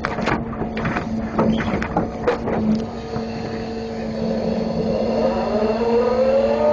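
Grapple truck's engine running with a steady hum while a quick series of knocks and clanks sounds in the first few seconds, as the grapple handles its load. From about four and a half seconds the engine revs up, rising in pitch.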